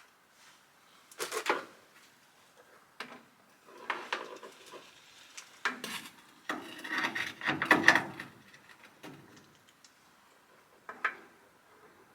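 Hand tools and metal parts being handled: irregular clinks, knocks and scraping, busiest and loudest about six to eight seconds in.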